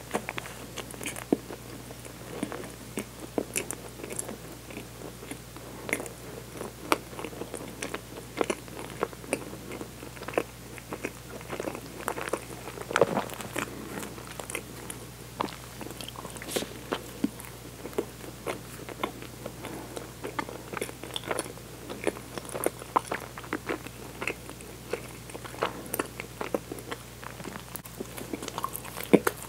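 A person chewing a soft bun close to a clip-on microphone: many small mouth clicks throughout, with a fresh bite into the bun near the end.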